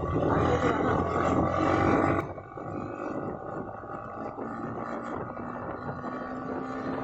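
Motorcycle engine and wind noise while riding, loud at first, then dropping suddenly about two seconds in to a quieter steady engine hum.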